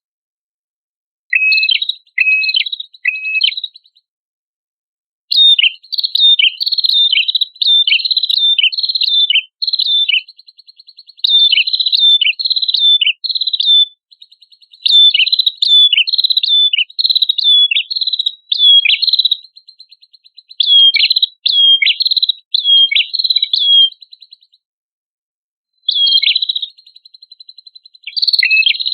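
A prenjak kepala merah (red-headed prinia-type songbird) singing energetic song: quick series of sharp, high chirps over a buzzing trill, in bursts broken by short pauses about four, five and twenty-five seconds in.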